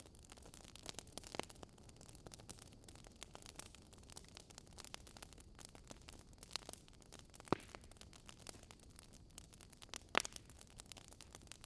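Campfire burning: wood crackling in a steady scatter of small clicks, with three louder pops, the sharpest about ten seconds in.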